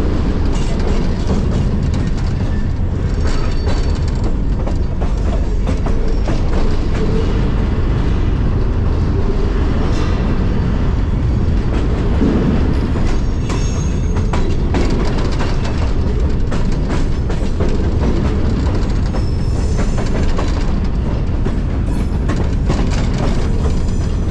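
Freight train rolling through a rail yard, heard from aboard a car: a steady low rumble of wheels on rail with clicks over joints, and brief high wheel squeals a few times.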